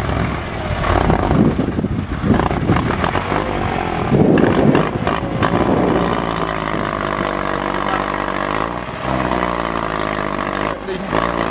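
Tractor engine running under load while pulling through mud, rough and uneven for the first few seconds, then settling into a steady drone.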